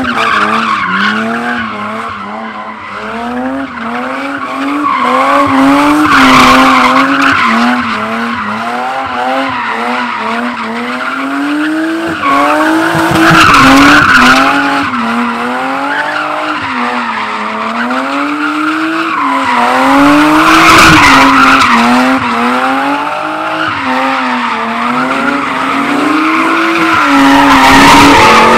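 Car engine held at high revs, its pitch swinging up and down every second or two as the throttle is worked, over steady tyre squeal from a burnout or drift. Louder swells come about every seven seconds.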